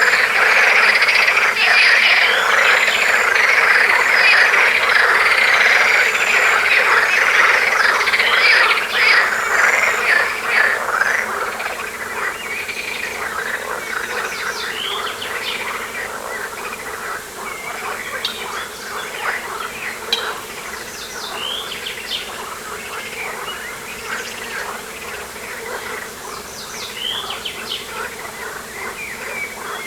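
Dense chorus of calling frogs and insects. It is loud for the first ten seconds or so, then quieter, with short high bird chirps over it.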